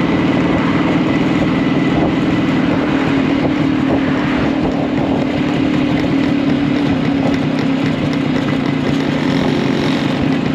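Small post-war two-stroke single-cylinder engine running steadily, its pitch lifting slightly about halfway through.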